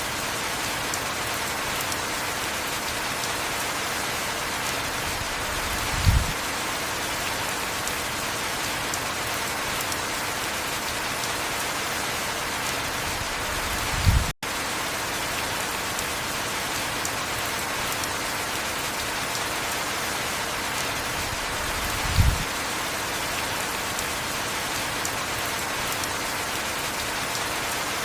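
Heavy rain falling steadily, with a short low thud about every eight seconds. The sound cuts out for an instant about halfway through.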